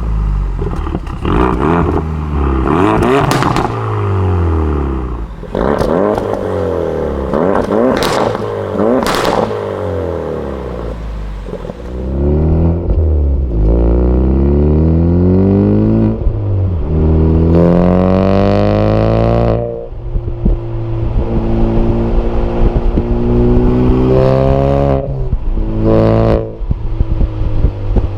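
Ford Focus RS Mk3's turbocharged 2.3-litre four-cylinder running through an HG Motorsport EGO-X cat-back exhaust, revving up through several gears with the pitch dropping at each shift. It holds steady for a few seconds, then revs again. Short sharp crackles come in at a few moments and near the end.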